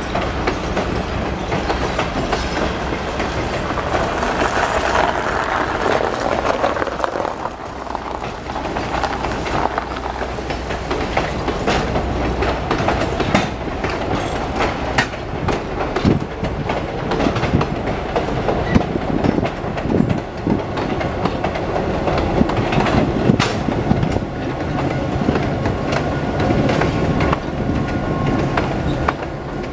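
Heritage passenger coaches of a train rolling past over a short bridge, wheels clacking irregularly over the rail joints under a continuous rumble. A low steady hum in the first several seconds fades out, and the clacks come thicker in the second half.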